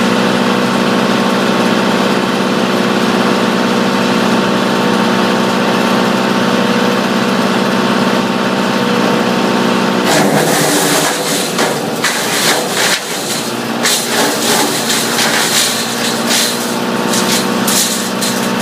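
Tractor-driven Caravaggi 190T wood chipper running steadily at working speed. About ten seconds in, an irregular cracking and crunching starts over the steady hum, as material is fed in and chipped.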